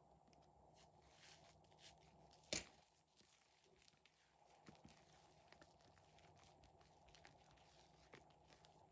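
Faint crackling and small sticky clicks of slime being worked by hand, with one sharper, louder click about two and a half seconds in.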